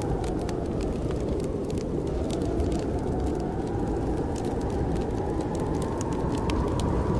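Blizzard wind howling, its moaning pitch sinking early on and rising again toward the end, over a steady low rumble. Frequent small sharp crackles and pops of a wood fire sound through it.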